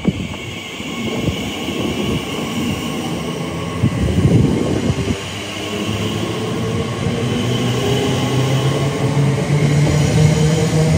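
A train approaching, growing steadily louder, with a steady droning hum that sets in about halfway through. Gusts of wind buffet the microphone in the first few seconds.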